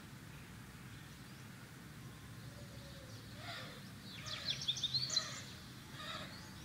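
A small bird chirping: a quick run of high, sweeping chirps a little past the middle, with a few fainter chirps before and after, over a steady low background hum.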